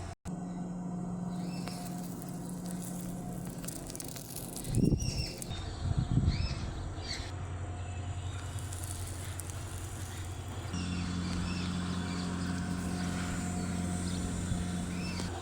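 Birds chirping in short repeated calls over a steady low hum, with two loud low rumbling bursts about five and six seconds in.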